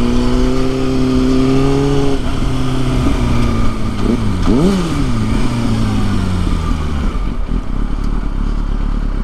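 Kawasaki ZX-6R sportbike's inline-four engine running on the road. About four and a half seconds in, the engine pitch dips and jumps back up, then falls steadily as the bike slows, leaving a low rumble near the end.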